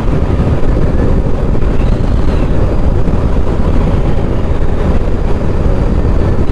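Suzuki GSX1250FA inline-four motorcycle cruising at road speed: a loud, steady rush of wind buffeting and road and engine noise, with no change in pace.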